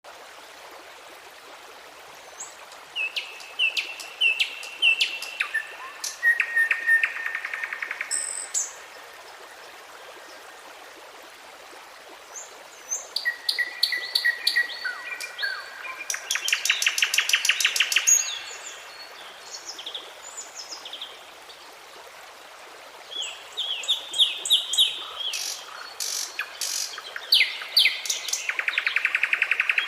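A songbird singing three long song bouts with pauses between them. Each bout is a string of varied high chirps that ends in a fast trill of rapidly repeated notes.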